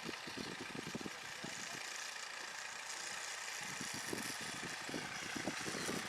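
An engine running steadily, with many light clicks and rattles, as from a tractor pulling a horse-drawn-era potato planter through the field.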